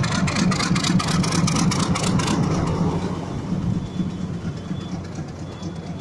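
Passenger train's coaches rolling along the track beneath, a steady low rumble with rapid wheel clatter for the first two seconds or so, then fading.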